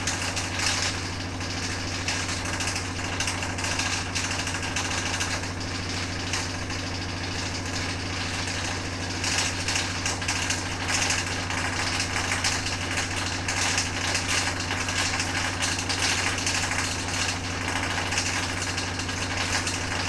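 Washing machine running, a steady motor hum under a constant rattle of small knocks: an abnormal noise that the owner puts down to a solid object that got into the laundry by mistake.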